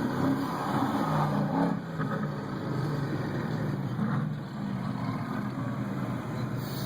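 Mercedes-AMG GT S's 4.0-litre twin-turbo V8 running at low revs with a deep, steady exhaust note that wavers slightly in pitch.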